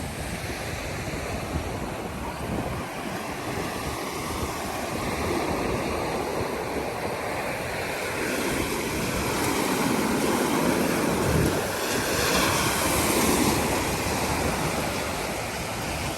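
Surf breaking and washing up a beach, swelling louder about ten seconds in, with wind buffeting the microphone.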